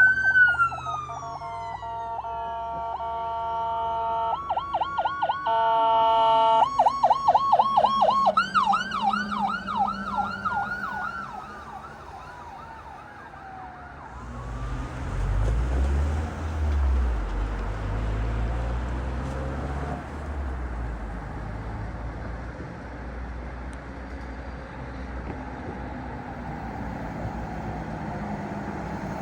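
Emergency vehicle's electronic siren cycling between a slow rising-and-falling wail and a fast yelp, then fading out about twelve seconds in. A heavy vehicle's engine rumble follows, loudest around fifteen to twenty seconds in, and settles into steady road noise.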